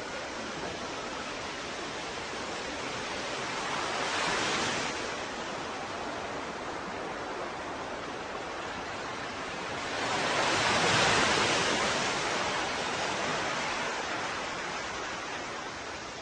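Ocean waves washing on a shore: a steady hiss of surf, with one wave swelling and breaking about four seconds in and a louder one about eleven seconds in that slowly washes away.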